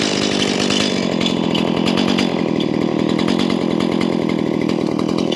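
Chainsaw running steadily at full throttle, cutting into a log.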